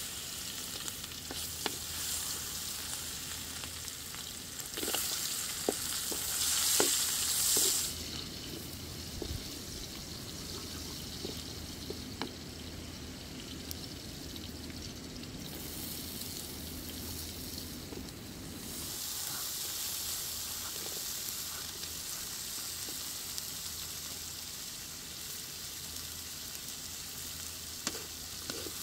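Garlic and chopped vegetables sizzling in hot oil in a steel wok, with light clinks and scrapes of a metal spatula against the pan. The sizzle rises loudest about five to eight seconds in and swells again from about nineteen seconds.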